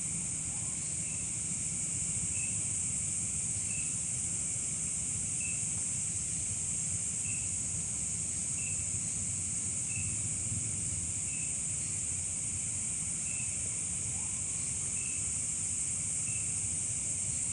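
Insect chorus, crickets most of all, keeping up a steady high-pitched trill, with a short chirp repeating about every second and a half, over a low rumble.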